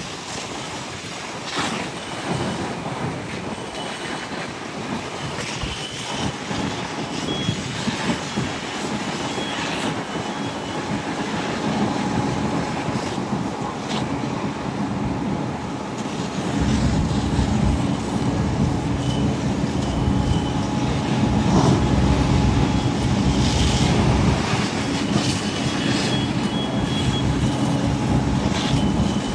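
Steady vehicle engine and traffic noise that becomes louder and deeper about two-thirds of the way through, with faint high beeping tones that come and go.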